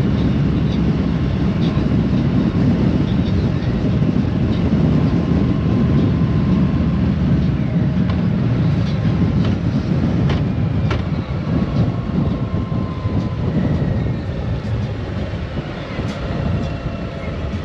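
Steady rush of wind and road rumble from a moving motorcycle, with faint engine tones shifting in pitch now and then.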